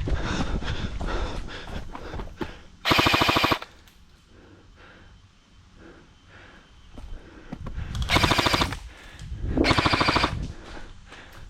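Airsoft guns firing on full auto: three rapid bursts, each well under a second. One comes about three seconds in, and two more follow close together near the end.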